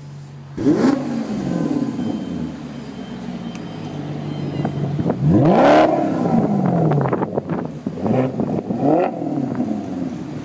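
Maserati GranTurismo S MC Sportline's 4.7-litre V8 engine and exhaust revving while driving. The note rises sharply about half a second in and again, loudest, around five to six seconds in, each time falling away. Shorter revs follow near the end.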